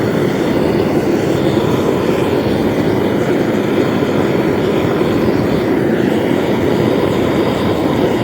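Propane burner of a homemade metal-melting furnace running at full flame: a loud, steady rushing noise that does not change.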